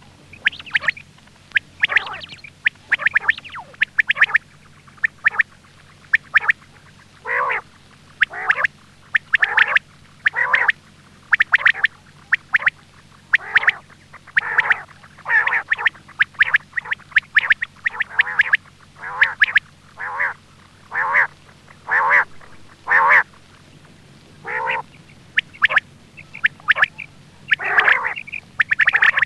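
Quail calls as used for luring quail: short, harsh notes that sweep downward, in quick irregular series of about one to two a second, over a faint steady low hum.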